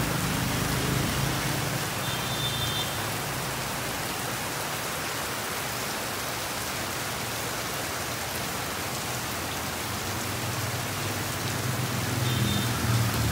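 Heavy tropical rain pouring down steadily onto the street and shop awnings. Motorbike engines hum past at the start and again near the end.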